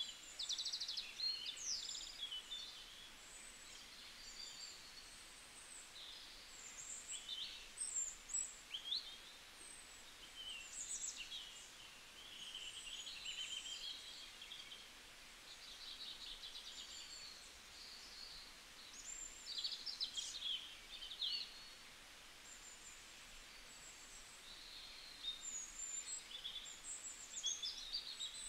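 Small birds chirping and twittering in bursts of short, high calls, with brief quieter gaps between bursts.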